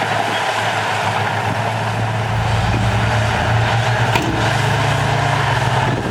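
Heavy earthmoving machinery's diesel engine running steadily, its low rumble growing heavier about two seconds in.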